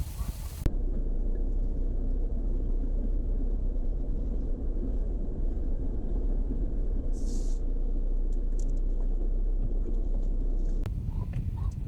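Vehicle driving, a steady low rumble of engine and road noise, with a brief hiss about seven seconds in.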